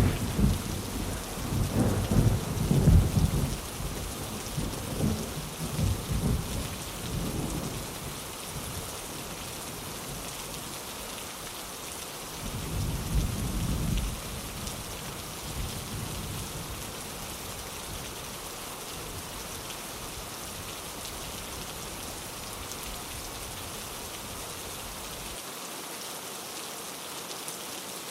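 Steady rain with rolling thunder: a long, loud rumble that fades over the first several seconds, then a second, shorter rumble about twelve seconds in.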